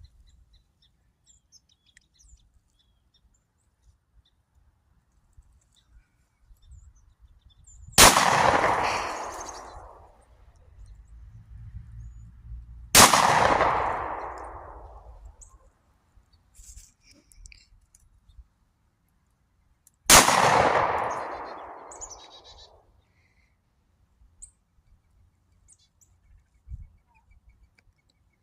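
Three single shots from a Springfield Echelon 4.5 pistol, the first about eight seconds in and the others about five and seven seconds apart, each ringing out and dying away over about two seconds.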